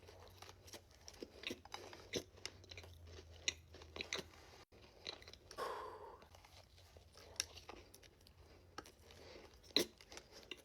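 Chewing a thick cookie topped with Oreo pieces and sprinkles, with scattered small crunches and wet mouth clicks.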